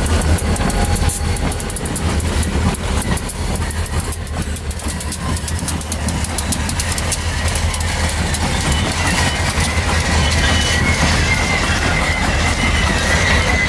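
Stillwater Central freight train rolling past: a steady rumble with rapid clicking of wheels over the rail joints, and a high steady wheel squeal that comes in about nine seconds in.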